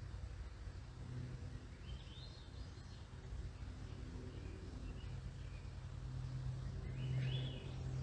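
Small birds chirping in two short bursts, about two seconds in and again near the end, over the steady low drone of a distant aircraft.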